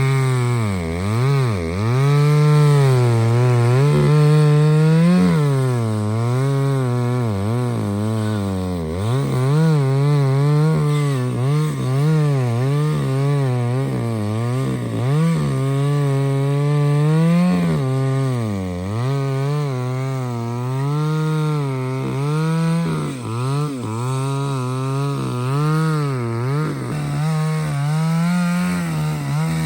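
A chainsaw cutting through a thick hardwood trunk, running near full throttle for the whole stretch. Its engine pitch sags repeatedly under the load of the cut and then picks up again.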